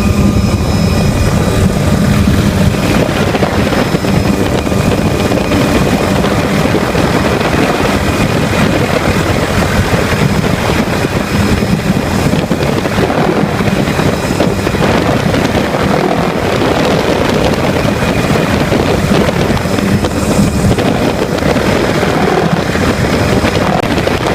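Helicopter engine and rotor noise: a loud, steady rumble with a rushing hiss over it that never lets up.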